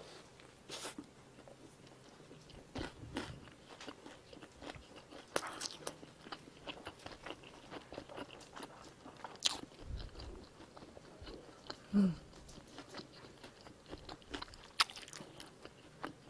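Close-miked chewing of a bite of a fried squid-patty burger, with scattered crunches and small mouth clicks. A brief hummed sound of the voice comes about twelve seconds in.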